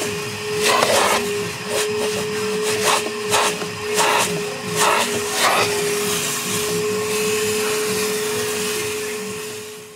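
Metro Vac Vac N' Blo 4.0 hp vacuum-blower running with a steady motor whine. In the first half or so the air noise surges briefly over and over; then it runs evenly and fades away near the end.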